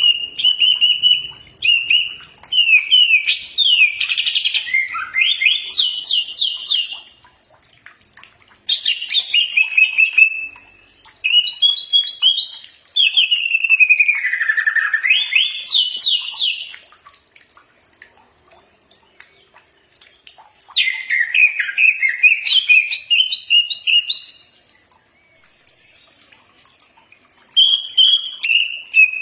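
Cucak ijo (green leafbird) singing in bouts a few seconds long, made of fast runs of repeated notes and rising and falling whistled slides, with short pauses between bouts. It is played as a masteran song to draw a reply from a caged cucak ijo.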